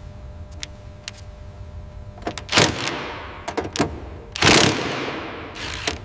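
A few faint clicks, then four loud sharp knocks and bangs, each followed by a long echoing tail, starting about two and a half seconds in. A faint steady hum sits under the first half.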